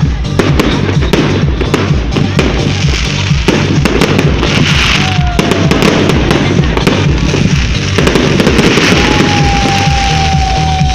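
Fireworks going off in a rapid run of crackles and pops, with music playing along with a steady low beat. A long steady tone sets in about nine seconds in.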